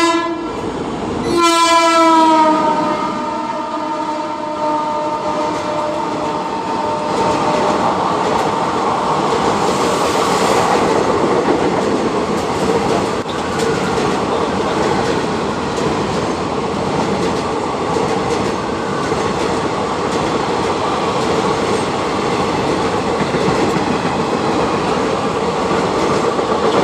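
Indian Railways WAP-5 electric locomotive sounding its horn, a short blast then a longer one that drops slightly in pitch and fades, followed by the passenger coaches rolling past with a steady rumble and the clickety-clack of wheels over rail joints.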